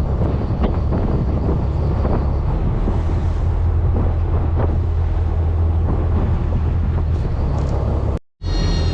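Fishing boat's engine running with a steady low drone, with wind noise on the microphone and a few light knocks. The sound cuts out briefly near the end.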